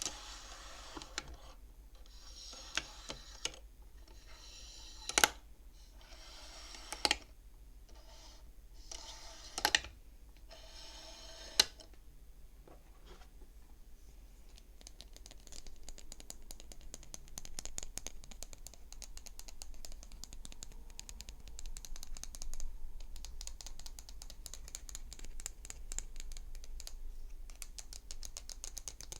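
Beads of a wooden counting-frame abacus being slid along their rods, several runs that each end in a sharp clack of bead on bead or frame. About halfway through this gives way to rapid, continuous tapping on the abacus's wooden divider.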